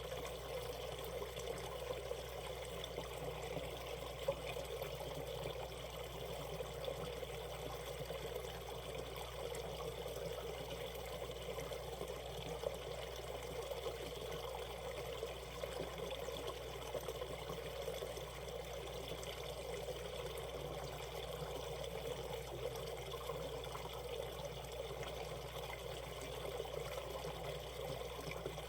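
Shallow valley stream flowing over rocks: a steady, even trickling and splashing of water.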